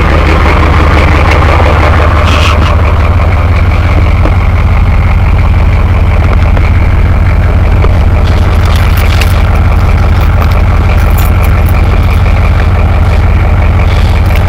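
GM 6.2L V8 diesel in a 1990 GMC truck idling steadily and loudly through a Banks exhaust, still cold shortly after a cold start.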